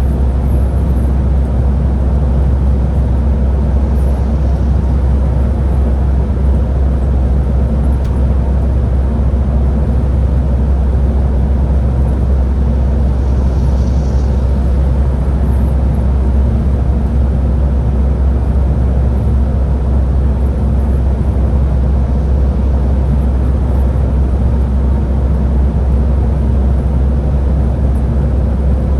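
Scania Higer A30 city bus driving, a steady low rumble of engine and road noise.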